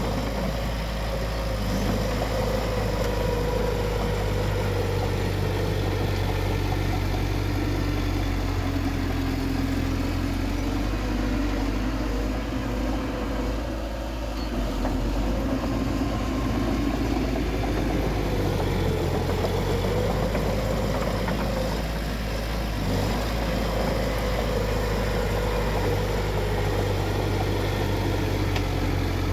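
Bulldozer's diesel engine running steadily at work, with a constant low hum; its pitch sags a little about halfway through and picks back up some seconds later.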